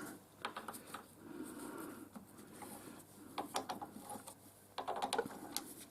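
Keyed drill chuck being undone with a chuck key: scattered light metallic clicks and short scrapes as the key's teeth work the chuck loose.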